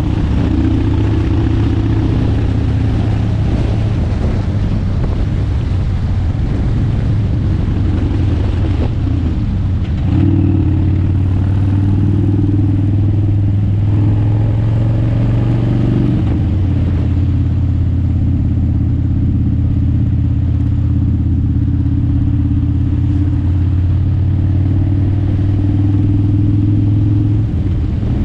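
Motorcycle engine running steadily under way, heard from an onboard camera. Its note steps up about ten seconds in and shifts again a few seconds later.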